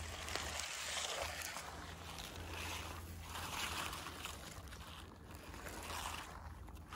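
Rustling of branches and foliage with footsteps as someone pushes back out through dense bushes, over a steady low rumble of wind and handling on the microphone.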